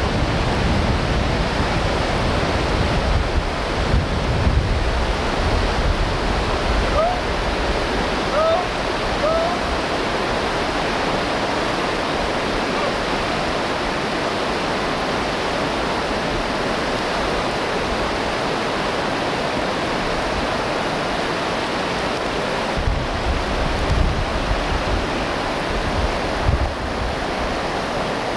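Whitewater of a Green River rapid rushing steadily, with a few faint short chirps about eight seconds in.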